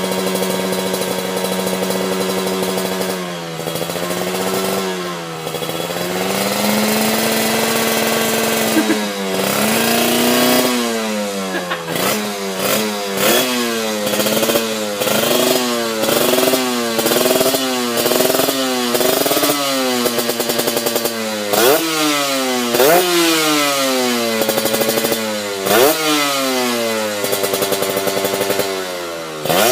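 Motorcycle with an aftermarket Kawasaki Ninja exhaust, idling steadily and then revved over and over. After a few slower revs it is given quick throttle blips, about one a second, each rising and falling in pitch.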